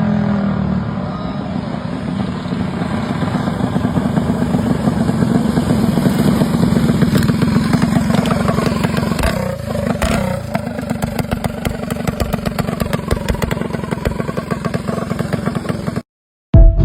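Mini bike's small engine running and revving, its pitch dipping and climbing again about nine to ten seconds in. The sound cuts off suddenly near the end.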